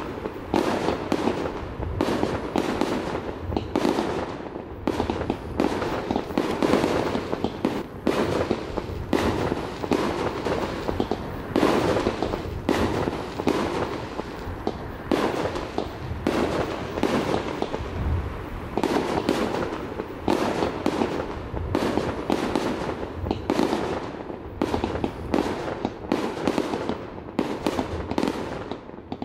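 Aerial fireworks bursting in a continuous barrage, several bangs a second without a break.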